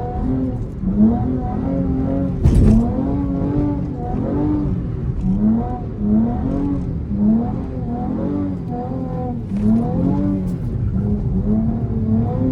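A V6 Dodge's engine revving up and down over and over, its pitch rising and falling about once a second as the car is slid around on wet pavement. There is a sharp loud thump about two and a half seconds in.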